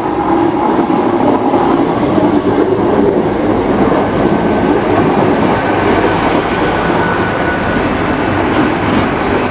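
Great Western Railway Hitachi Intercity Express Train running past close by along the platform: a loud, steady rush of wheels and running gear as the carriages go by. A thin steady whine sounds through the middle, and a few sharp clicks come near the end.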